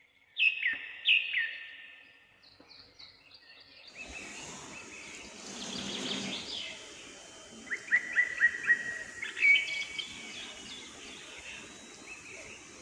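Birds chirping and calling in short falling whistles, with a quick run of chirps about eight seconds in. About four seconds in, a steady hiss of rain starts beneath them.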